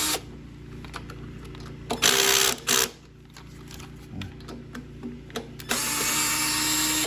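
Cordless drill/driver with a 10 mm socket spinning in short bursts, running out the 10 mm bolts on the mower engine: a burst about two seconds in, a brief blip just after, and a longer run near the end.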